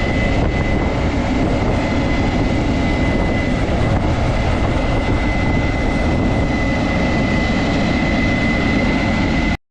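Combine harvester running steadily, a heavy rumble with a steady high whine over it, breaking off abruptly just before the end.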